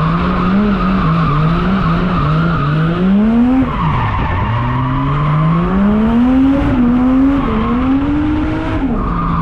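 A drift car's engine revving hard, its pitch climbing in several rises and dropping sharply twice, over a steady squeal of tyres sliding sideways.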